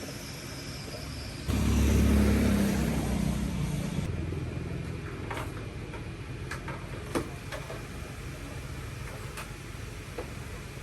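A motor starts abruptly about a second and a half in, loud at first and then easing off to a lower steady run, with a few sharp clicks and knocks afterwards.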